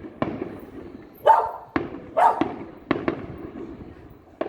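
Fireworks going off: sharp bangs at irregular intervals, each trailing off, the two loudest about one and two seconds in.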